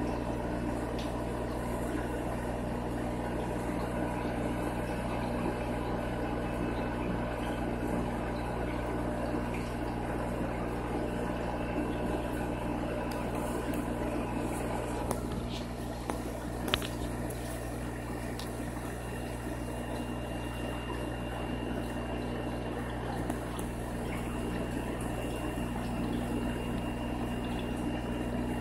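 Steady hum and water trickle of aquarium filters and pumps running, with a few faint clicks a little past halfway.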